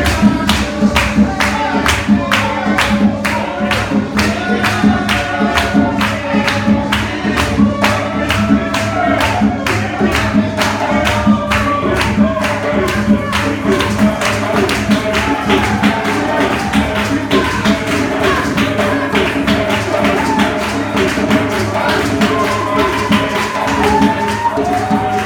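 Gospel music at a church revival service: voices singing a melody over a steady, fast percussion beat, with tambourine-like shaking.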